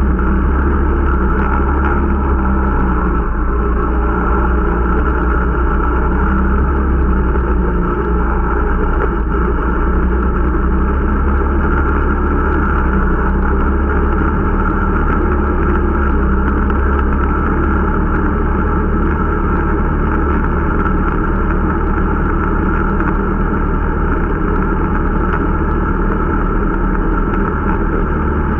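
Irbis Dingo T125 snowmobile's small single-cylinder engine running at a steady, even speed under way during its break-in run.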